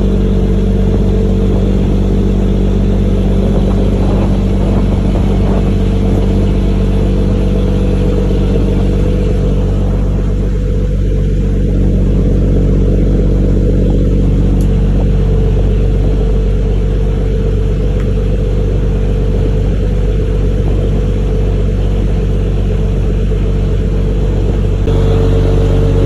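A fishing boat's engine running steadily at a constant loud drone, its note shifting slightly near the end.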